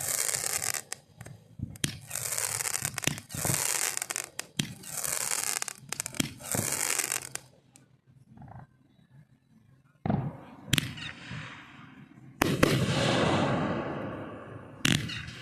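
Fireworks going off. A run of about five crackling, hissing bursts comes in quick succession, then a short lull. After that come sharp bangs, the loudest followed by a long, fading rumble and crackle.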